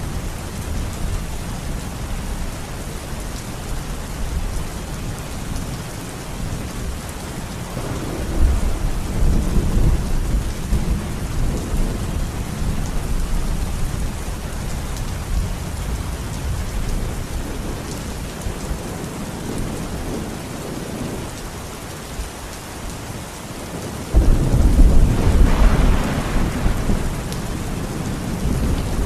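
Steady rain with two rolls of thunder: one swelling about eight seconds in, and a louder one that breaks suddenly near the end.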